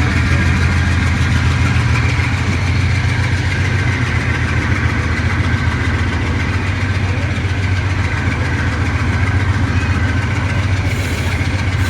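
AGE30 'Blue Tiger' diesel-electric locomotive engine running steadily, a loud, even low hum with a fast chugging texture.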